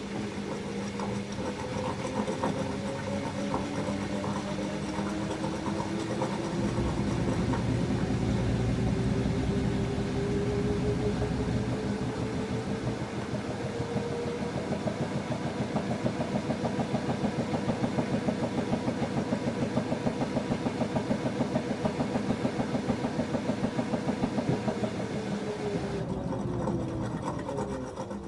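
LG F10A8HDS5 front-loading washing machine spinning: the motor's whine climbs steadily in pitch, the drum holds speed with a fast pulsing hum, and near the end the whine falls away as the spin winds down.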